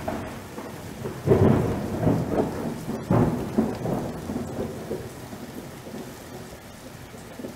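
Thunder rumbling over rain, with two loud rolls about one and three seconds in that then die away.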